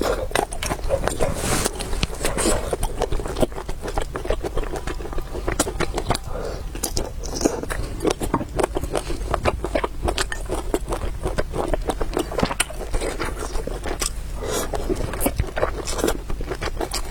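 Close-miked eating: chewing and biting food, with many short wet clicks and smacks coming quickly and irregularly.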